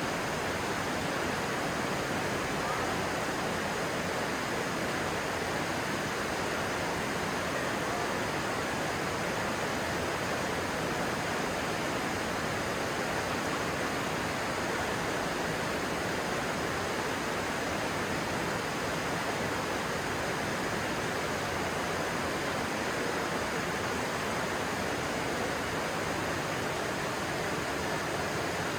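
Stream water rushing steadily, an even, unbroken flow.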